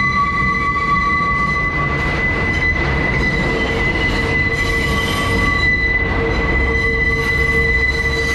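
Steel wheels of an R142 subway car squealing against the rail on the tight South Ferry loop curve, heard from inside the car over the rumble of the running train. The squeal holds several steady high-pitched tones at once, one of which drops out about two seconds in and comes back later.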